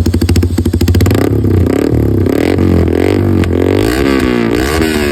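Motorcycle exhaust: a fast, even firing pulse at first, then the engine revved up and down in repeated throttle blips through the second half.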